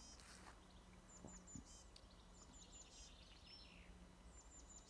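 Faint birdsong: a small songbird repeating short phrases of three or four quick, high, down-slurred notes about every one and a half seconds, with a few warbled notes between them.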